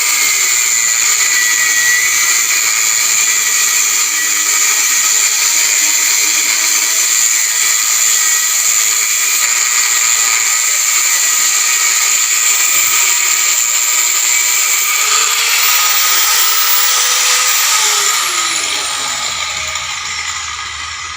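Electric cutting tool cutting steel rebar, a loud, steady high whine. Near the end its pitch falls and it fades as the motor winds down.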